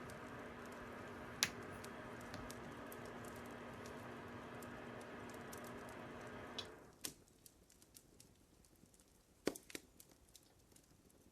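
Fire crackling: scattered pops and snaps, with a sharp louder pop about a second and a half in and another near the end. A steady hum under the crackle cuts off suddenly about two-thirds of the way through.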